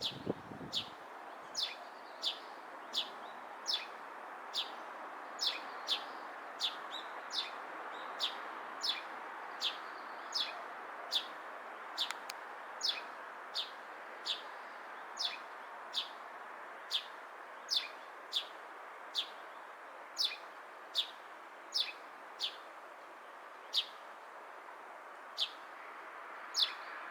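Eurasian tree sparrow calling: one short, sharp chirp that drops quickly in pitch, repeated a little more than once a second, with a few longer gaps near the end, over a steady background hiss.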